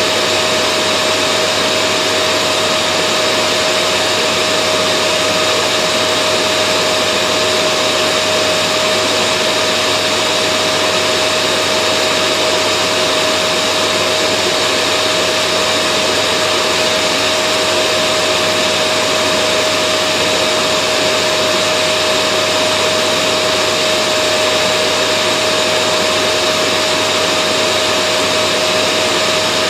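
Vacuum cleaner running steadily: an even rush of air with a constant whine.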